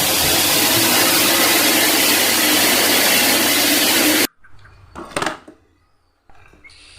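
Loud, steady mechanical whirring noise that cuts off abruptly about four seconds in, followed a second later by a single short knock.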